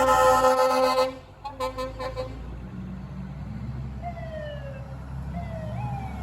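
Music cuts off about a second in, giving way to a fire truck's engine running low, with its siren sounding in repeated falling wails from about four seconds in.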